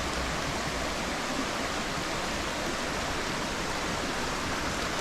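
Stream water rushing steadily over a riffle, an even, unbroken rush.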